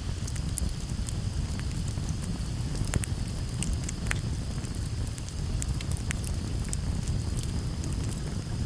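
Campfire burning with a steady low rumble and irregular sharp crackles and pops from the burning wood. A steady high-pitched tone sits underneath.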